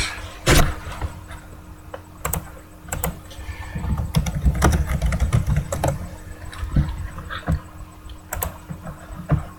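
Irregular light clicks and taps at a desk, with a low rumbling handling noise about halfway through, over a faint steady hum.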